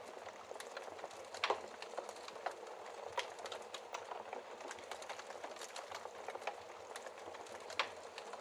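Wood fire crackling in a fireplace: a steady hiss under many small snaps, with louder pops about a second and a half in, around three seconds in, and near the end.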